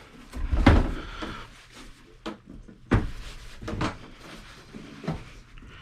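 Knocks and clunks of a desktop computer case being handled as its cover is worked loose, several separate knocks with the loudest about half a second in.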